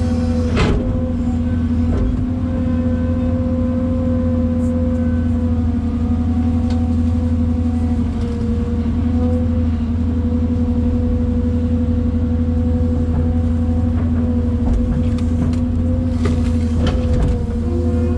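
Kobelco SK250 LC excavator's diesel engine running steadily under work, its pitch sagging slightly about eight seconds in and recovering a few seconds later. A couple of short knocks, one near the start and one near the end.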